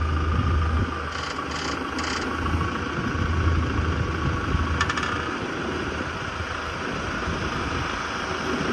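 Kubota tractor's diesel engine running steadily while the front loader's hydraulics raise the bucket, with a steady high whine throughout. Three short clicks come between one and two seconds in.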